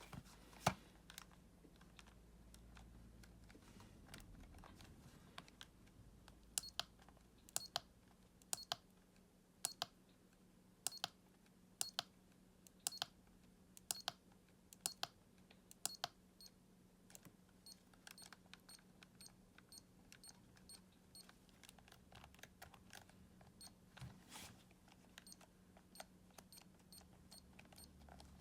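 Sharp plastic clicks from handling a Sharp TV remote control, about one a second for several seconds and then more scattered, over a faint steady hum.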